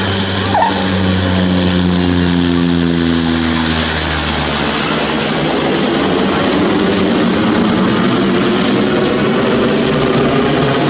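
Cessna 208B Grand Caravan's single turboprop engine and propeller running loud during its landing. The propeller's hum slowly sinks in pitch and fades out about four to five seconds in, leaving a steady loud rushing noise.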